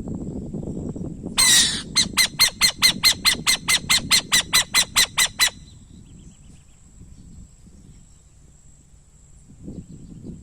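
Owl calling: a short harsh screech, then a rapid, even series of about fifteen sharp high-pitched notes, roughly four a second, that stops suddenly after some three and a half seconds.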